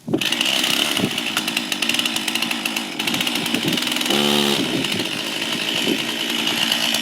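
Chainsaw running steadily at high revs, starting and stopping abruptly.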